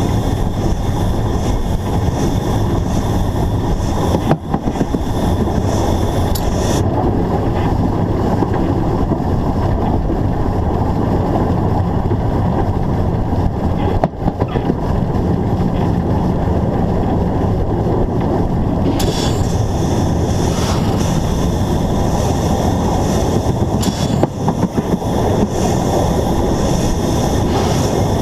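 Narrow-gauge steam locomotive under way, heard from a camera mounted on the locomotive: a steady, dense rumble of the running train mixed with wind on the microphone. The higher hiss drops away for about twelve seconds partway through, then returns.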